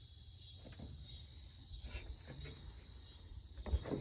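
Steady high insect chorus, like crickets, with a faint low rumble underneath and a single sharp knock near the end.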